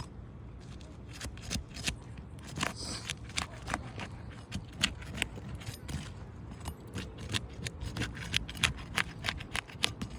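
A metal shingle-removal tool working under asphalt roof shingles to break their seal: irregular sharp clicks, ticks and scrapes, coming thicker in the second half, over a steady low rumble.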